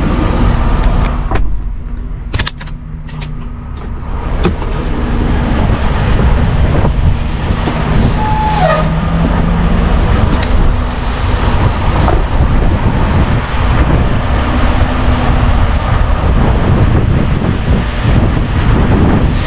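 Heavy truck's diesel engine running with a steady low rumble, a few sharp clicks in the first few seconds and a short beep about eight and a half seconds in.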